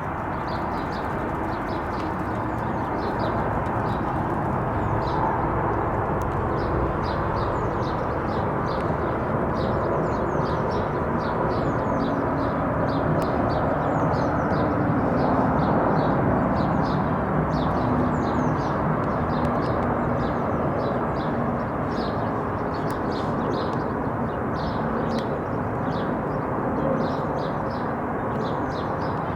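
Airbus A321neo airliner passing overhead, its Pratt & Whitney geared turbofan engines making a steady jet rumble that swells to a peak about halfway through and then eases. Small birds chirp throughout.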